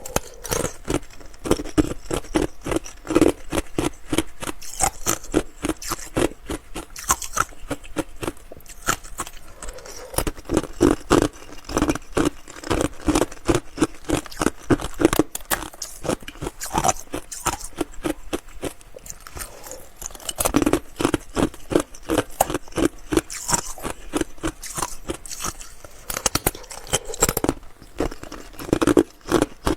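Ice being bitten and chewed close to the microphone: a dense run of crisp crunches and cracks, several a second, with a short lull near the end.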